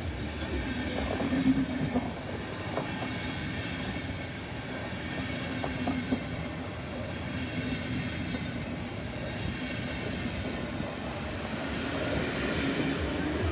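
Passenger coaches of a loco-hauled train rolling steadily past, wheels running over the rails, with a few short clicks in the first few seconds and getting louder near the end.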